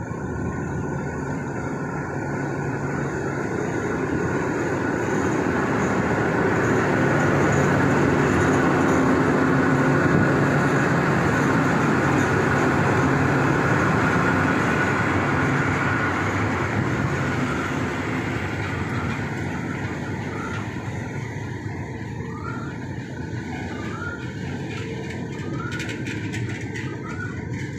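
Diesel locomotive hauling a passenger train past at close range: a steady heavy engine rumble that grows loudest as the locomotive goes by, then the carriages rolling past on the rails with short repeated squeaks about once a second near the end.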